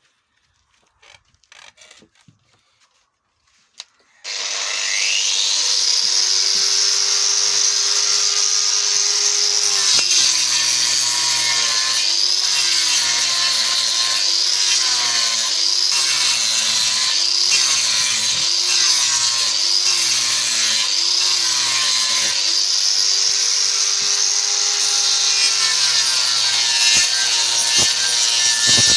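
A few light clicks, then about four seconds in an electric power tool starts up and runs while cutting into wood, its pitch dipping and recovering in a regular rhythm of roughly one dip a second as it is loaded on each pass.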